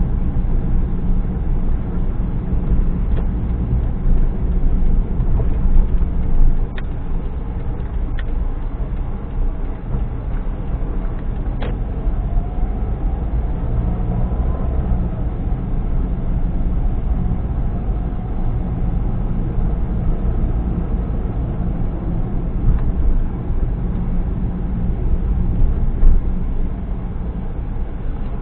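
A car driving: a steady low rumble of engine and road noise, with a few sharp clicks in the first half.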